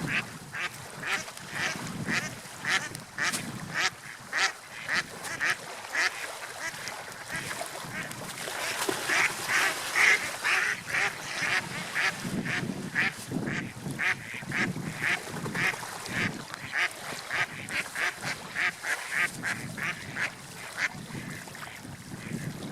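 Seagulls calling, a long series of short cries about one to two a second, louder and crowding together about nine to eleven seconds in, over the wash of waves and wind.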